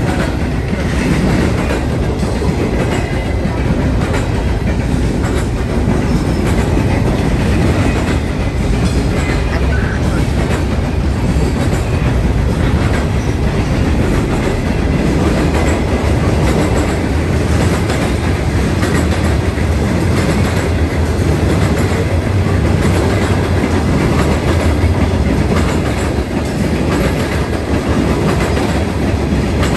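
Freight train cars rolling past at close range: a steady loud rumble of steel wheels on rail, with wheels clicking over the rail joints. The consist is container flatcars, then hoppers and tank cars.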